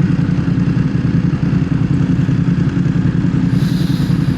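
BMW motorcycle engine running steadily at low revs, with a brief hiss near the end.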